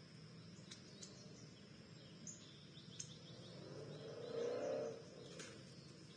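Faint outdoor backyard ambience with a few short, scattered bird chirps and clicks. About four seconds in, a louder low whirring sound swells for about a second and then fades.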